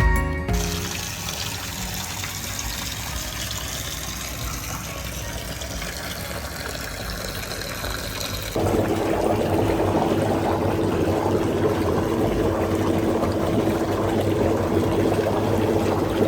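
Water running steadily. It gets suddenly louder about eight and a half seconds in, where a steady tone joins the rush.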